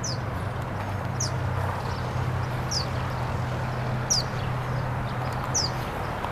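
A bird giving a short, high chirp that sweeps downward, five times at about one-and-a-half-second intervals, over a steady low hum.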